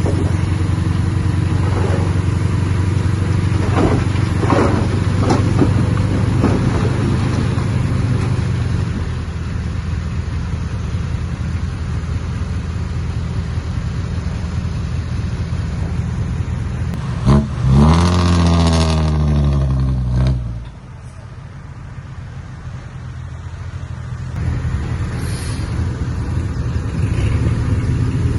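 Heavy diesel engine of earthmoving machinery running steadily, with a few clanks early on. About two-thirds of the way through it revs up hard for about three seconds and then drops off sharply, and the engine sound builds again near the end.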